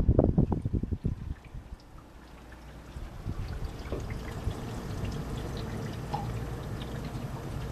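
GE window air conditioner winding down after being switched off. Its running noise dies away over the first couple of seconds, then a steady trickling, water-like sound goes on as the fan keeps spinning down.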